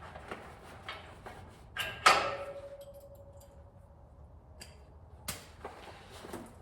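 Steel brush guard hardware being worked by hand as its pins are pulled: light metal clicks, then a loud clank about two seconds in that leaves a single ringing tone fading over about two seconds, and another sharp knock near the end.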